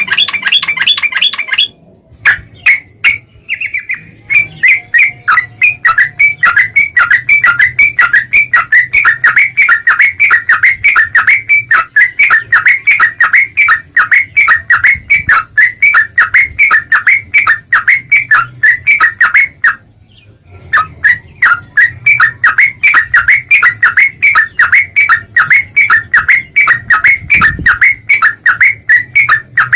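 Trucukan (yellow-vented bulbul) chattering: a loud, rapid string of short repeated notes, about four or five a second, with a short pause around two-thirds of the way through.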